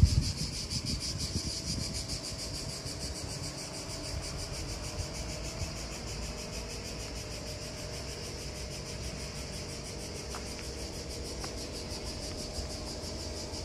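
Mercedes-Benz ML 250 BlueTEC's four-cylinder diesel engine idling, a low rumble that is loudest at first and then steady and quieter. A steady high insect buzz runs over it.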